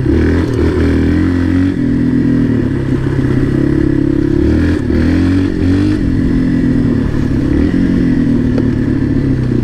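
Dirt bike engine running under way, its note dipping and rising a few times as the throttle is worked.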